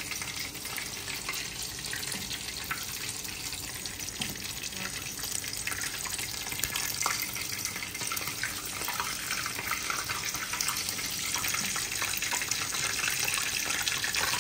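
Oil sizzling steadily as shami kebabs and samosas shallow-fry in nonstick pans, with a few light taps of a plastic spatula against the pan.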